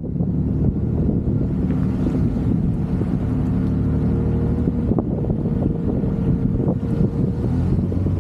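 Classic sports car's engine running steadily as the car drives along, with wind noise on the microphone.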